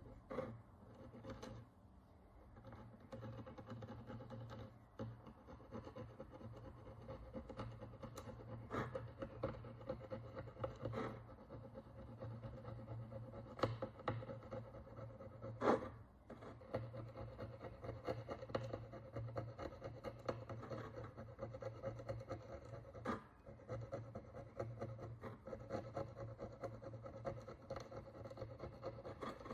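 A small hand tool scraping and picking at the crust on a Roman bronze coin: a continuous fine scratching with scattered sharper ticks, over a low steady hum.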